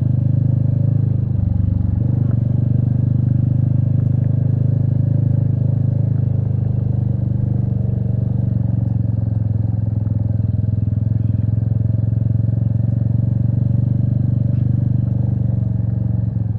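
Royal Enfield Meteor 350's single-cylinder engine running at low, steady revs, a constant low rumble.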